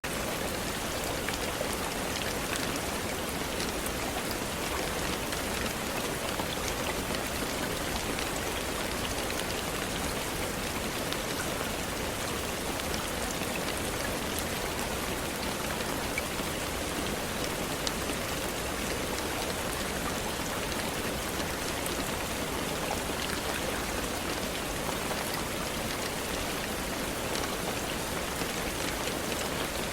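Steady rain falling, with many small drop ticks through an even hiss, unchanging throughout.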